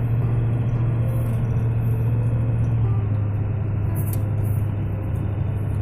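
Steady low rumble of a vehicle driving, heard from inside the cab: engine and tyre noise on a snowy road.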